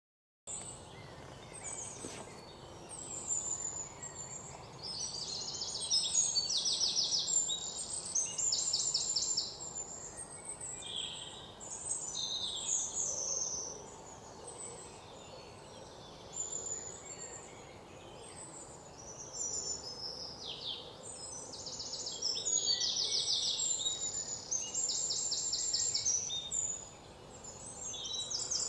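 Birds calling and singing: fast, evenly pulsed trills and short chirps, some sliding down in pitch, over a faint steady hiss of outdoor background noise. It starts about half a second in.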